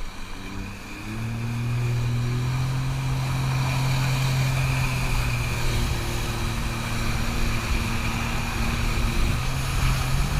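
Jet ski engine speeding up about a second in, then running steadily at speed while towing a rider.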